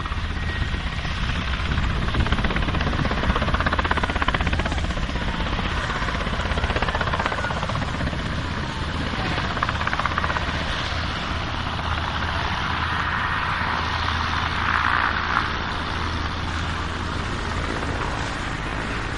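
Helicopter rotor and engine noise running steadily, with a deep low rumble under a broad whooshing hiss.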